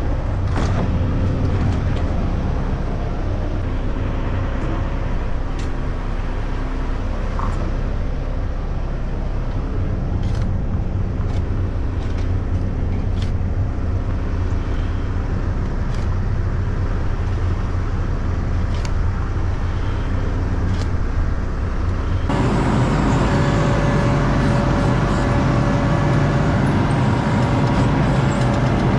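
ASV RT-40 compact track loader's diesel engine running steadily under work, with scattered short clicks and clatter; it gets louder and fuller about 22 seconds in.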